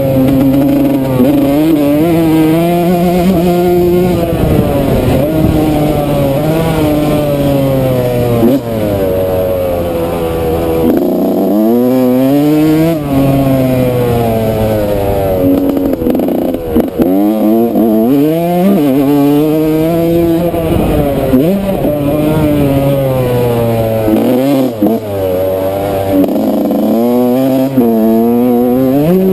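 Yamaha YZ125 single-cylinder two-stroke dirt bike engine revving hard and falling away again and again as the throttle is opened and chopped through the gears around a motocross track, with several brief cuts in power.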